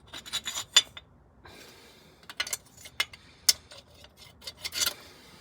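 Irregular scraping and rubbing with scattered sharp clicks, from hands working on metal parts in a car engine bay.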